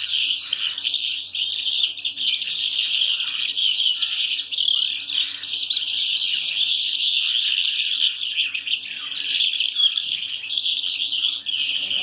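Many caged birds chirping without a pause, a dense, high twittering chorus.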